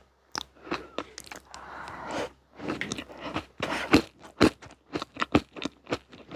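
Close-miked chewing of a crunchy dessert snack: a rapid, irregular run of crisp crunches.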